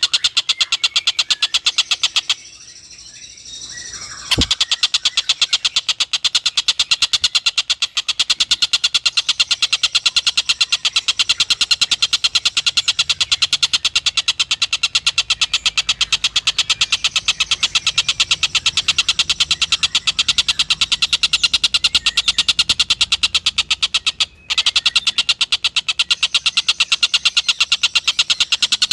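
Tengkek buto kingfisher calling in a fast, continuous chattering trill of rapidly repeated high notes. It breaks off for about two seconds shortly after the start and cuts out for a moment near the end.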